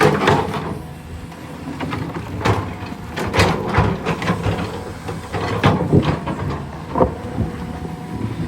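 A heavy diesel engine running steadily, with repeated irregular metallic clanks and scraping knocks over it, the loudest about a second in and around three and a half, six and seven seconds in.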